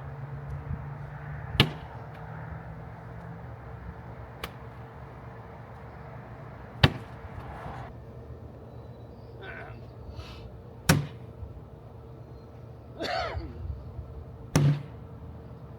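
Cornhole bean bags thrown one at a time, each landing with a sharp thud on the wooden board: four loud hits a few seconds apart and one lighter one.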